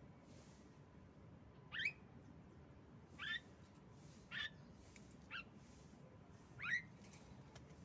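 Female Javan myna giving short, quickly rising calls, five in a row about a second apart.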